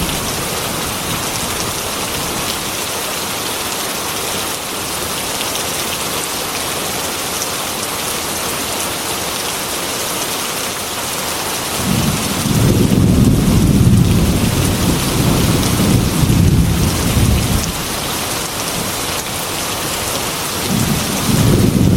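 Heavy rain falling on a glass window in a steady hiss. A long rumble of thunder rolls in about halfway through and lasts several seconds, and another begins near the end.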